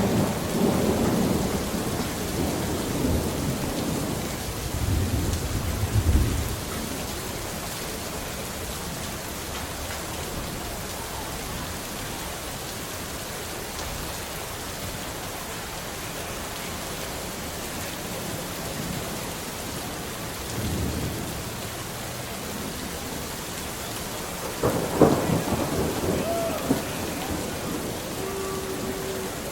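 Steady rain with thunder rumbling through the first six seconds and again around twenty seconds in. A louder, sharper burst comes about 25 seconds in, followed by a few brief tones near the end.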